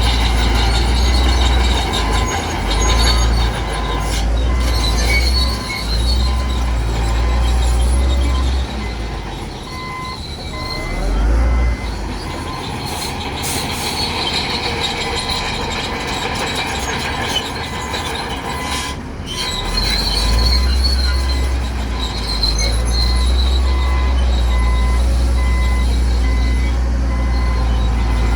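Crawler bulldozer working: its diesel engine runs under load with a deep rumble that eases off twice, while the steel tracks squeal and clatter. A rapid reversing-alarm beep sounds at times.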